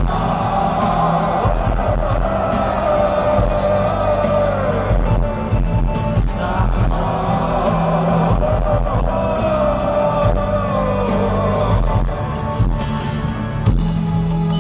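Live rock band playing on after the last sung line of a slow song: a wavering, gliding lead melody over steady bass.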